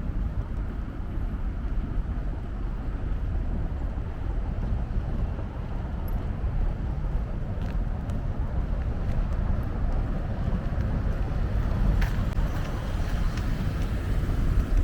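Outdoor street ambience: a steady low rumble of road traffic and wind on the microphone, with a few faint ticks.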